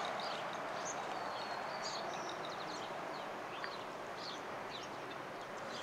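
Many short, high bird chirps scattered throughout, over a steady outdoor hiss.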